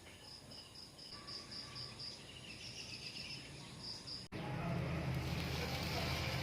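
Faint high-pitched insect chirping, repeated evenly about four times a second. About four seconds in it gives way abruptly to a steady low hum.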